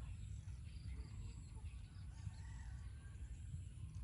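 Faint outdoor ambience: birds chirping and calling here and there over a low rumble, with a thin call about halfway through.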